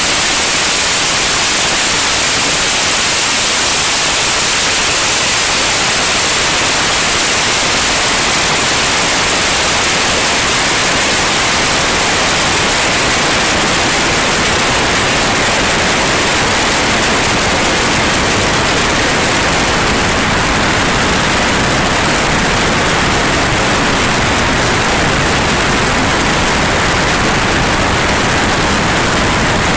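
Steady, loud rushing hiss of a light aircraft's cabin in flight, engine and airflow noise blended together, with no change through the stretch.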